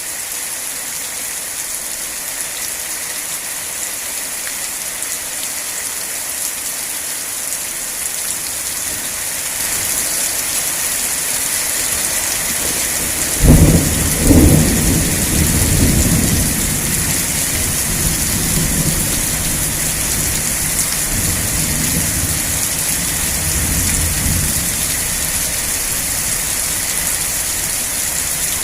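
Steady rain hissing, growing heavier about ten seconds in. About halfway through, a sudden loud thunderclap with a second crack right after, then low thunder rumbling for roughly ten seconds under the rain.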